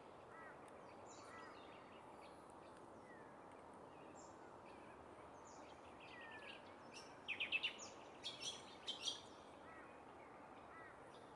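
Wild birds chirping and calling over a faint steady background hiss, with a short run of louder, sharp calls about seven to nine seconds in.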